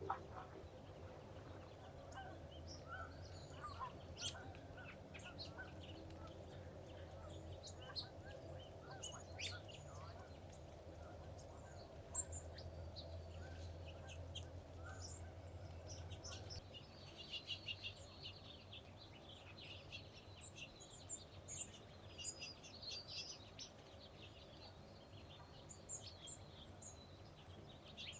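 Wild birds calling and chirping, many short high calls, turning into a dense chattering run about two-thirds of the way through. A faint low rumble sits underneath for the first half and then fades.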